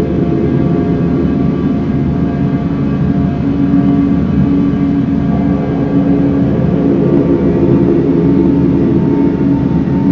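Dense, steady noisescape drone: layered held tones over a low rumble, from noise instruments run through ambient reverb and delay effects (Hologram Microcosm, Strymon Night Sky, Soma Cosmos, EarthQuaker Afterneath).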